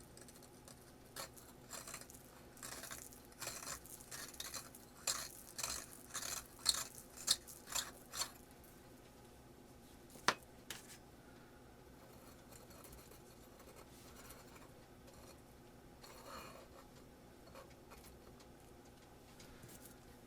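Small handling noises from work on the furnace build: a quick run of short scrapes and clicks for several seconds, then a single sharp click a couple of seconds later, with faint rustling after.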